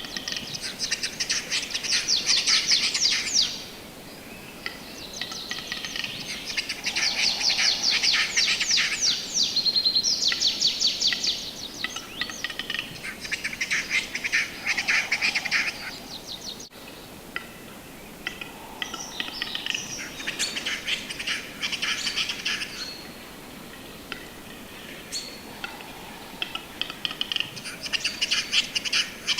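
Western capercaillie song: repeated phrases, each a few seconds long, of rapid high-pitched scraping clicks, with short pauses between them.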